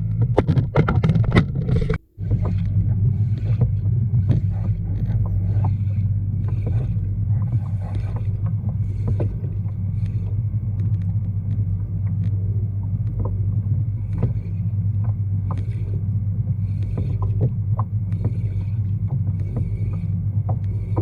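Sounds aboard a fishing kayak on open water: a steady low hum with scattered small knocks, clicks and water slaps against the hull. The sound cuts out briefly about two seconds in.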